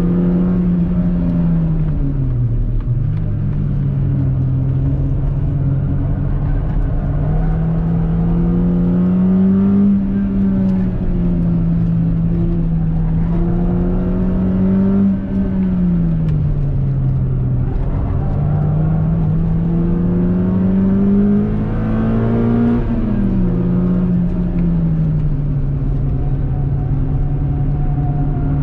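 Peugeot 206 RC's 2.0-litre 16-valve four-cylinder engine with a 63.5 mm stainless exhaust, driven hard on track. The engine note climbs slowly under full throttle and then falls away off the throttle, three times over.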